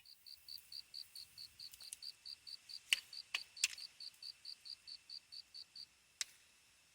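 A cricket chirping faintly and steadily, about four and a half short high chirps a second, stopping near the end, with a few sharp crackles from the campfire.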